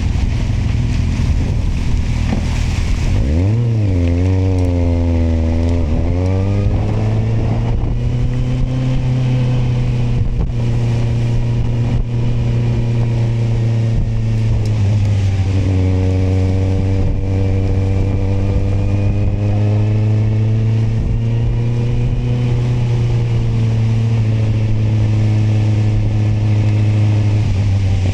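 Kawasaki motorcycle engine under way. A few seconds in, the revs drop and climb again, as at a gear change, then settle into a steady cruise over a constant hiss.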